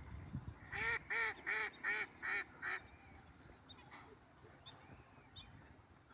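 A bird gives a quick series of six loud, evenly spaced calls, each rising and falling in pitch, about three a second. After them, fainter high chirps and thin whistles from smaller birds.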